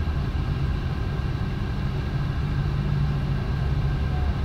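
Steady low engine and road rumble of traffic heard from inside a car's cabin, with a low engine hum and no sudden bumps or knocks.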